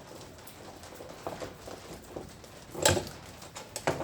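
Light metallic clicks and knocks as loosened bolts are taken off a washing machine's tub mechanism by hand, with one louder knock about three seconds in.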